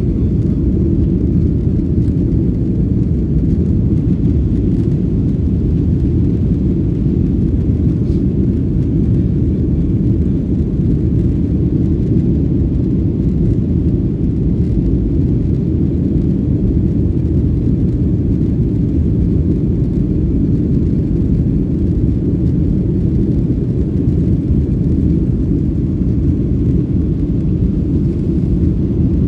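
Steady low rumble of an airplane, unchanging, with no distinct events.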